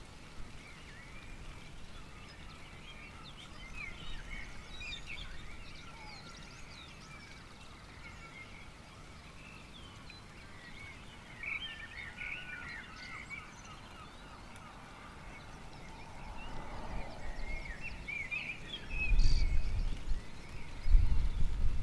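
Birds chirping and singing in a dawn chorus, with many short calls overlapping. In the last few seconds, deep, uneven low rumbling comes in much louder.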